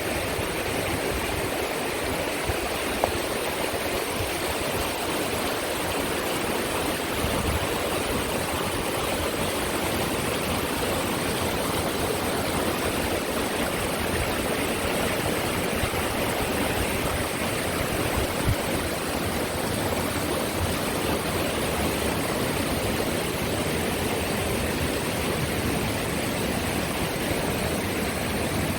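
Rushing water of a river gorge's rapids or falls, a steady, unbroken rush.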